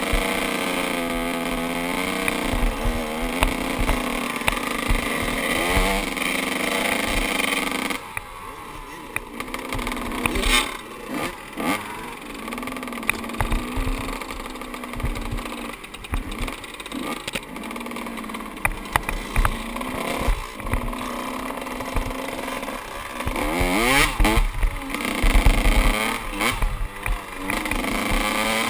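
Two-stroke 125 cc dirt bike engine being ridden, its revs rising and falling with the throttle. It holds high revs for the first several seconds, drops off, then runs in on-off throttle bursts, with quick rising revs near the end. Occasional sharp knocks come through.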